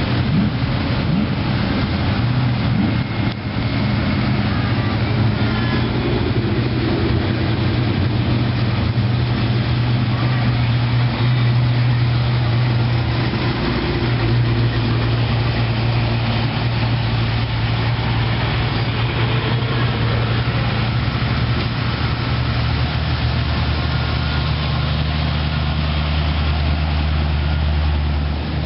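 A motor-vehicle engine running with a steady low rumble; a deeper second engine note joins about two-thirds of the way through.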